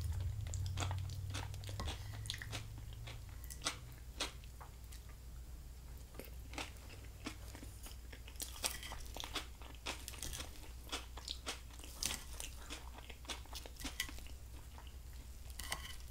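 A person chewing food close to a microphone, with many short, crisp crunches scattered throughout.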